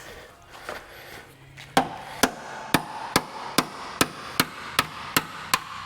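Hammer driving out a Humvee hood hinge pin: about ten steady blows, a little over two a second, each with a metallic ring. They start about two seconds in.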